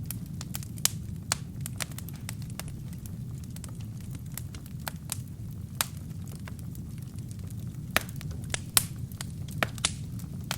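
Wood fire with burning kindling in a fireplace: irregular sharp crackles and pops over a steady low rumble of the flames, with the loudest pops about a second in and around eight to nine seconds in.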